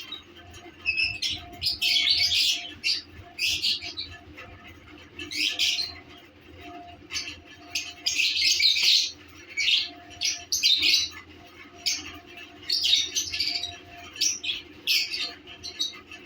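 Lovebirds chirping and chattering in short, shrill bursts that come every second or two.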